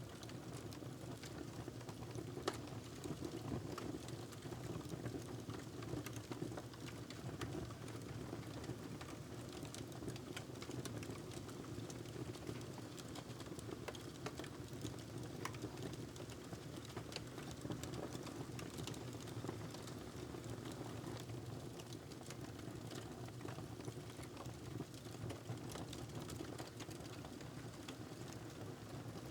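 Fireplace fire crackling, with irregular sharp pops and snaps over a steady low rush of burning; one pop about two and a half seconds in stands out.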